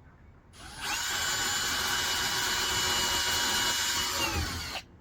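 Power drill boring a bolt hole through the cargo box, with a bit slightly oversized for the hardware. The drill spins up about half a second in and runs at a steady whine for several seconds. Its pitch sags slightly just before it stops suddenly near the end.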